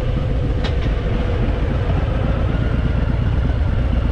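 Harley-Davidson Fat Boy's V-twin engine running steadily, a low, even rumble with a rapid pulsing beat.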